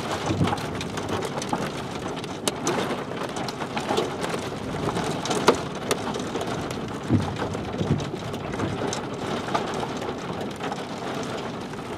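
Steady rain, with many scattered sharp taps of drops striking.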